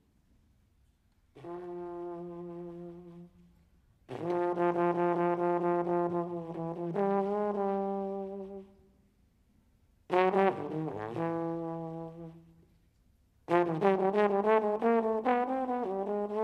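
Solo improvised jazz on a brass instrument, played in four phrases with short pauses between them. The first phrase is soft held notes. The later phrases are louder, with quicker note changes and bends near the end.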